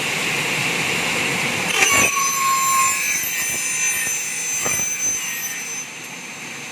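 Double-head aluminium cutting saw with its circular blades spinning and feeding into an aluminium profile, a steady loud grinding hiss with a high whine. There is a sharp click about two seconds in and another near five seconds, and the noise eases off near the end.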